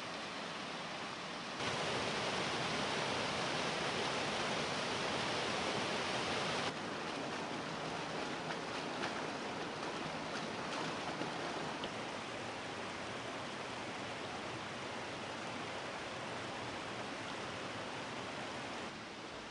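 Rushing water of mountain waterfalls, a steady rush of noise. It jumps louder about two seconds in and drops back about seven seconds in, with a few faint clicks in the middle.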